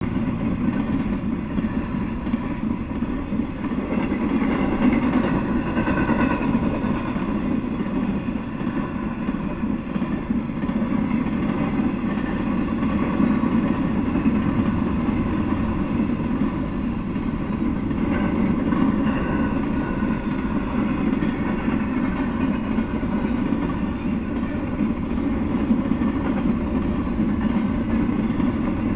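Intermodal freight train of double-stack container well cars rolling past, a steady rumble of steel wheels on the rails.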